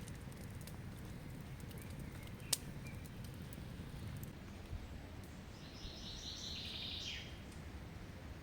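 A bird gives a fast chattering trill for about a second and a half, a little past the middle, over steady low outdoor background noise. A single sharp click comes about two and a half seconds in.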